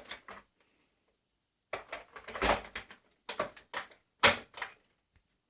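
Plastic clicks and knocks from handling the body of a switched-off Vax Air Lift Steerable Pet Max upright vacuum cleaner, a series of them with the sharpest about four seconds in.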